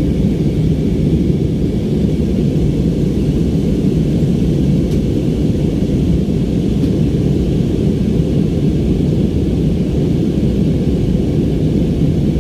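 Airliner cabin noise during the climb after take-off: a steady, loud low rumble of jet engines and airflow, with a fainter hiss above it.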